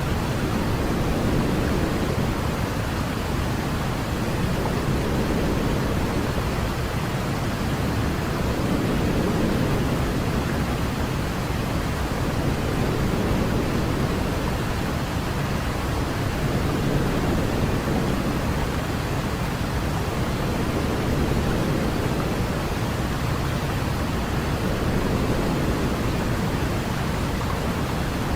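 Baby-sleep white noise: a steady, even rushing hiss with most of its weight in the low end, unbroken throughout.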